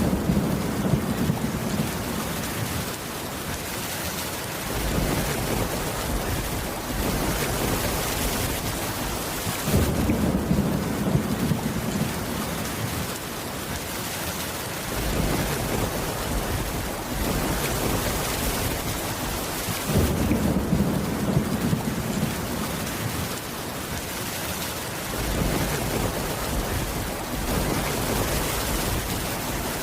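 Steady heavy rain pattering on a cabin's wooden roof, with a low rumble of thunder rolling in about every ten seconds and fading away.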